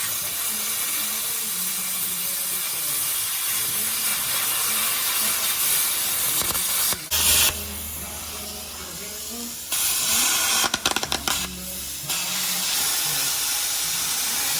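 Plasma cutter running: a loud, steady hiss of air and arc that stops briefly and starts again a few times, with crackling about ten seconds in.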